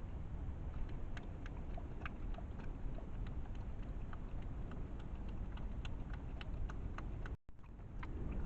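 Wild boar feeding: irregular sharp crunching clicks over a steady low rumble, which cuts out briefly near the end.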